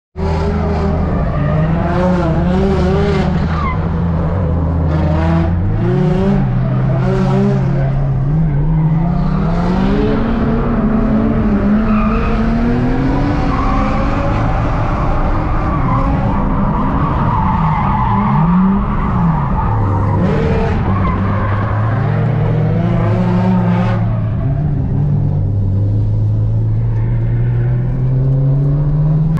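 Nissan Laurel's turbocharged RB25DET straight-six heard from inside the cabin on drift laps, revs climbing and dropping again and again as the car is thrown through the corners. Tyres squeal through the middle of the slide.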